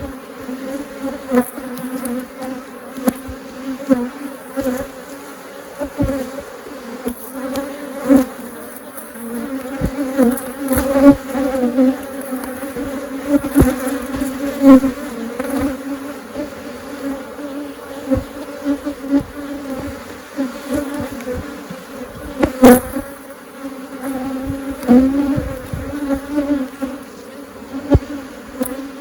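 A large mass of honeybees buzzing around an opened hive: a loud, dense, steady hum, the bees stirred up and flying at the camera. Many short sharp ticks run through it, with one louder knock about three-quarters of the way through.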